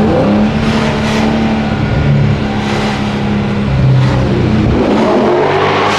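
A muffler-deleted 6.4-litre HEMI V8 in a 2023 Chrysler 300C, driving with a steady, deep exhaust drone. The engine note rises in pitch briefly at the start and again near the end.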